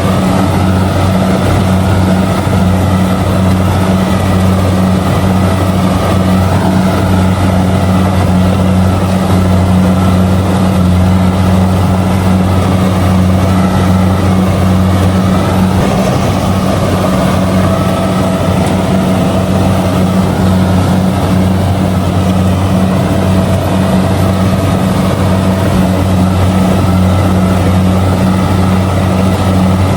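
Kubota DC-70G combine harvester running steadily while harvesting rice: a constant engine hum with a strong low pitch that holds the same level throughout.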